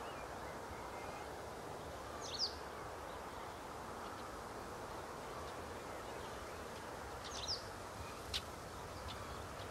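Faint steady open-air background hiss with two short chirping bird calls, about two and a half seconds in and again about seven and a half seconds in, followed by a single sharp click.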